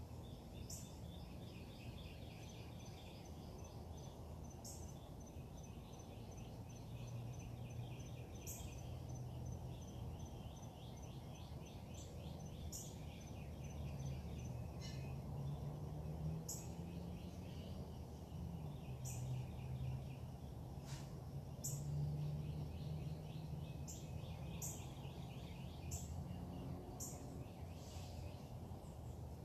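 Several birds singing in a dawn chorus: short high calls repeating every few seconds, trilled phrases, and an even run of high pips for the first half. A steady low rumble runs underneath.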